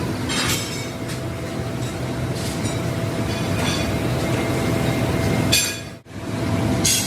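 Steady din of factory machinery with scattered sharp clinks of steel. The sound breaks off abruptly for an instant about six seconds in, then resumes.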